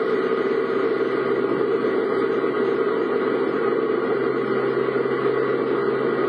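A car's engine and road noise heard from inside the cabin, steady and unchanging.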